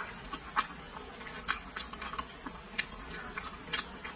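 Close-up chewing of braised pork: soft wet mouth clicks and smacks at irregular intervals, one to three a second.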